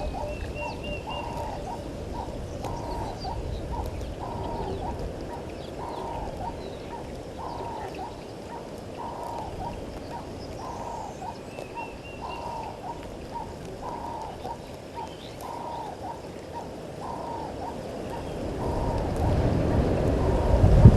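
Outdoor wildlife ambience: a bird repeats one short, slightly falling note about three times every two seconds, while other birds chirp and whistle more faintly and higher. A low rumble of wind on the microphone builds near the end.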